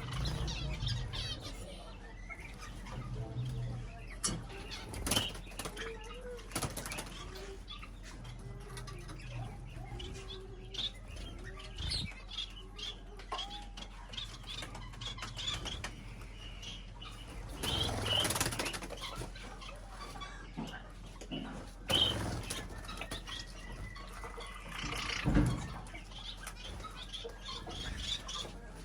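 Small birds flapping their wings in several short flurries amid scattered high chirps, with a few low cooing notes.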